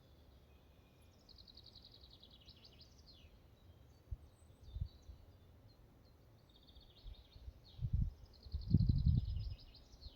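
Forest ambience with a small songbird singing two rapid trilled phrases, each about two seconds long and dropping slightly in pitch toward its end. Low rumbling thumps come in twice, briefly about four seconds in and loudest around nine seconds in.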